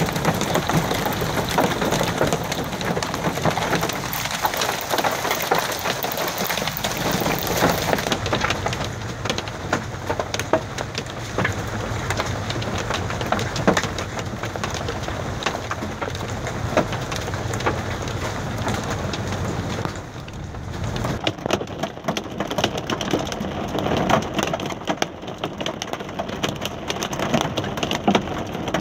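Hail falling with rain: a dense, continuous clatter of hailstones striking hard surfaces.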